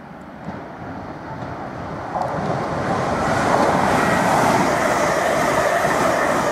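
London Midland electric multiple unit passenger train running through the station at speed: a rushing noise of wheels on rail that builds, jumps up about two seconds in, and stays loud as the carriages go past.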